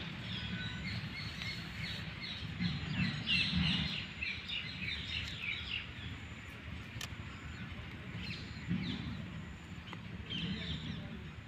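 Small birds chirping in short clusters of quick high calls over low outdoor background rumble.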